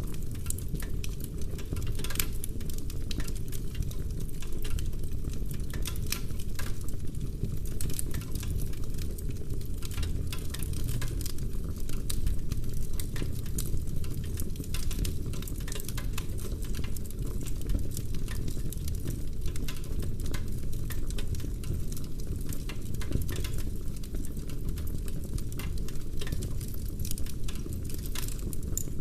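Wood fire burning in a fireplace, with steady dense crackling and scattered sharp pops over a low rumble of flame.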